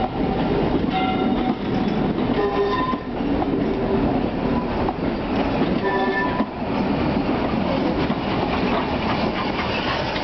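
Railway coaches rolling past beneath a footbridge, the wheels clattering steadily over the rail joints, with a few brief high squeals from the wheels.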